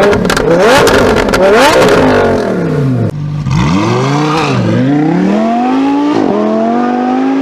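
Lamborghini Huracán EVO RWD's V10 through a Novitec exhaust: a few sharp throttle blips with crackles and pops, two more revs, then a hard run up through the gears, the pitch climbing steadily with a quick drop at an upshift.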